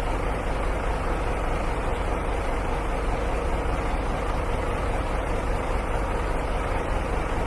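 Steady rumble and hiss of a vehicle running, with no sudden events.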